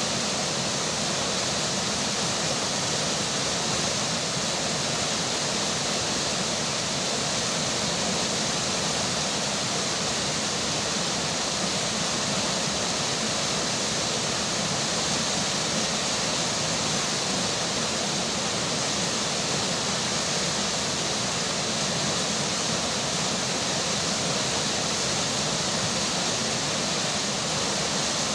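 River water flowing, with rain falling: a steady, unbroken rushing hiss.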